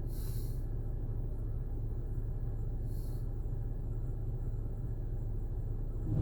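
Steady low hum heard from inside a vehicle's cabin in a touchless car wash while the spraying has paused, with a faint brief hiss about three seconds in.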